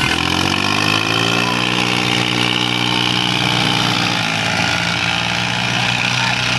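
Diesel tractor engine with its revs falling over the first second or so, then running steadily at low revs.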